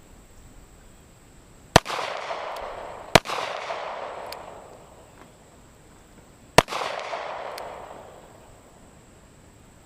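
Three handgun shots, the second about a second and a half after the first and the third some three seconds later, each followed by a long rolling echo.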